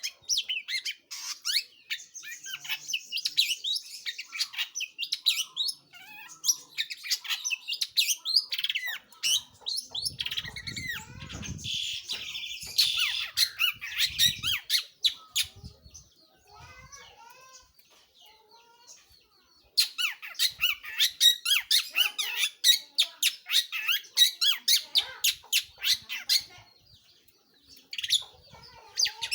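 Long-tailed shrike (cendet/pentet) singing a fast, continuous run of short high chattering notes. The song drops away for a few seconds past the middle, then resumes as densely as before.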